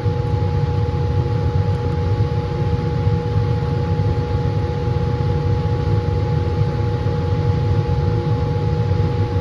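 Laminar flow hood blower running steadily, a low roar of moving air with a constant hum tone over it.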